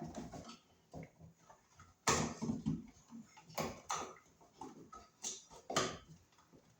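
Irregular scraping, rustling and knocking as electrical cable is pushed down through a hole in the wall framing toward an outlet box, with several sharper knocks.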